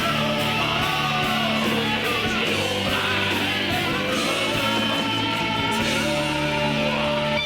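Rock song with sung vocals over electric guitar.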